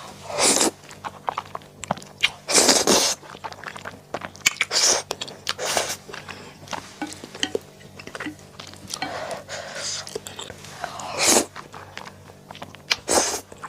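Close-miked eating sounds: a person chewing and biting, with several louder bursts breaking up quieter, irregular chewing.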